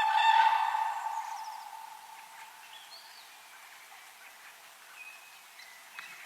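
A large bird's loud, sustained call, held on one pitch, fades away over the first two seconds. Faint short chirps and whistles of small birds follow over a quiet natural background.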